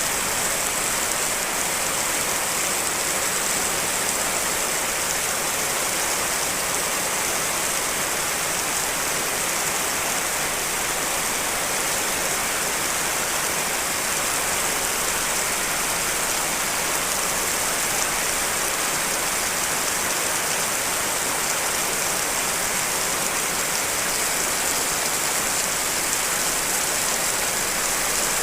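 Steady rain, layered from several rain recordings: an even, unbroken hiss, strongest in the high treble.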